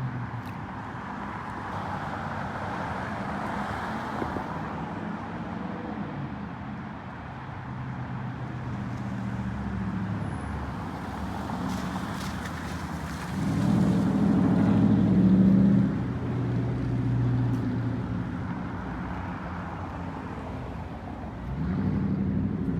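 Dodge Charger R/T's 5.7-litre HEMI V8 running through a full straight-pipe exhaust with no mufflers or resonators. It holds a steady note, gets louder for about two seconds past the middle, then settles back.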